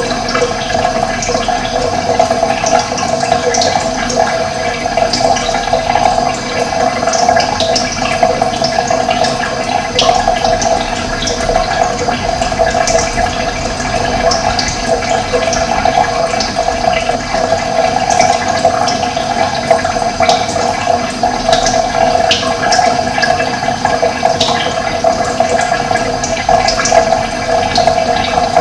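Steady sound of running water, with short high bird chirps scattered through it.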